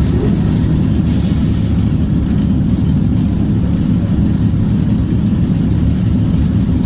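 Avro Lancaster bomber's Rolls-Royce Merlin V12 piston engines running steadily during a pre-flight engine check, a loud, deep, even drone. A brief hiss joins in about a second in.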